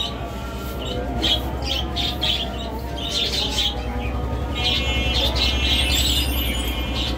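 Small cage birds chirping in quick repeated calls, over a steady low hum.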